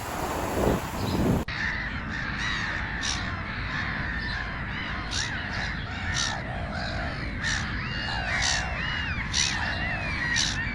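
A flock of birds calling: many overlapping chirps, with harsh calls about once a second. About a second and a half in, a lower animal call from the previous clip cuts off abruptly.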